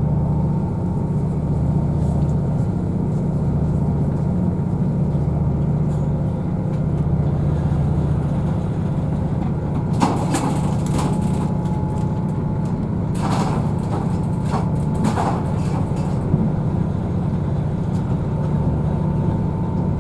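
Cabin sound of a Class 222 Meridian diesel multiple unit under way: a steady low drone and rumble from the underfloor diesel engine and running gear, pulsing slightly, with a faint whine. A few short bursts of clatter come about halfway through.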